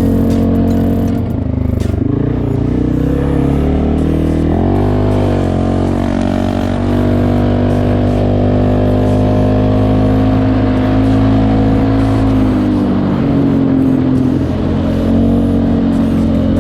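CFMoto 625 ATV engine running through an RJWC crossflow exhaust, its pitch sweeping up and back down about five seconds in, then holding steady before settling lower near the end.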